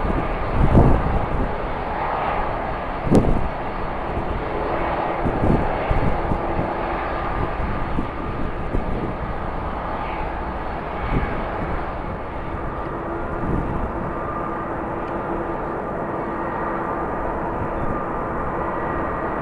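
Jet airliner engines running with a steady drone and a faint held tone. Strong wind buffets the microphone with low thumps during the first several seconds.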